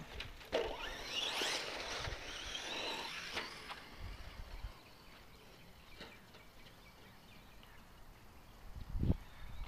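RC stadium truck's motor whining, rising and falling in pitch as it speeds up and slows, then fading away after about four seconds. A thump comes near the end.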